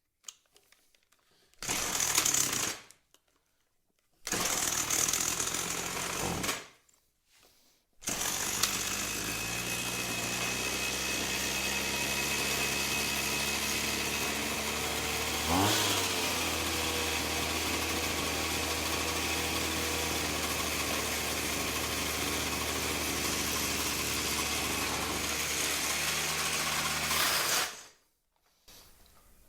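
Petrol Makita whipper snipper engine firing briefly twice, then starting and running steadily for about twenty seconds with a quick rise in pitch about halfway through, before cutting off suddenly. The owner finds the clutch won't disengage while it runs.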